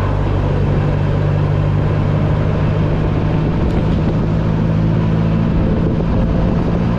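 A steady mechanical drone holding one pitch, with an even hiss over it and no break or change in speed.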